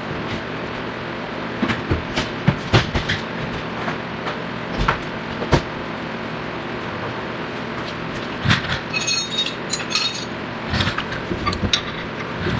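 Hand tools clicking and knocking against metal parts over a steady background hum, with a brief cluster of ringing metallic clinks about nine seconds in.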